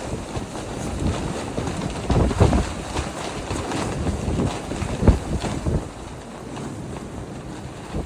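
Strong wind buffeting the microphone in gusts, a rumbling rush with sharper blasts about two seconds and five seconds in, easing a little near the end.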